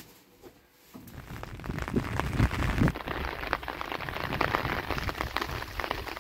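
Rain falling, a dense patter of drops that starts suddenly about a second in, with a few heavier low knocks mixed in.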